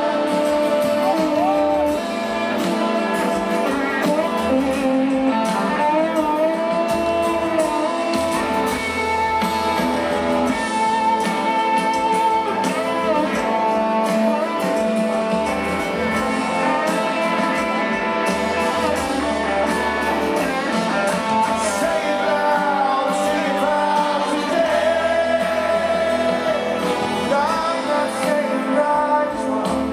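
Live rock band playing, with guitars and singing over a full band sound.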